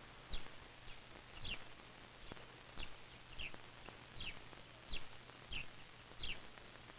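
A bird calling: short, high chirps that fall in pitch, repeated about once or twice a second with a few longer gaps, over a faint steady low hum.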